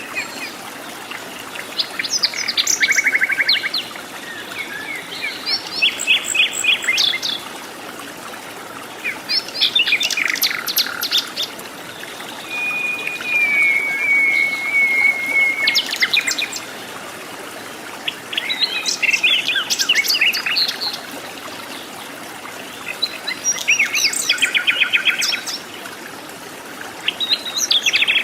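Wild bird song: a bird repeating a quick, complex phrase of high chirps every four to five seconds, with a steady trill about halfway through, over a constant background hiss.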